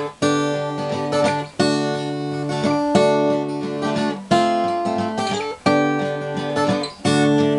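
Martin D-28 steel-string dreadnought acoustic guitar played alone between sung verses: a chord struck about every second and a half, left ringing, with single picked notes between the strokes.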